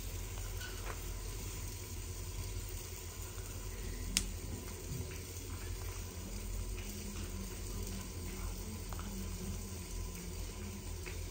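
Onions and ground spice paste frying in oil in a clay pot over a wood fire: a steady soft sizzle, with a sharp crackle about four seconds in.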